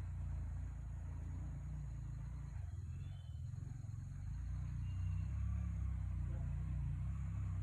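Off-road vehicle engine running steadily, a low rumble that grows a little louder about two-thirds of the way through.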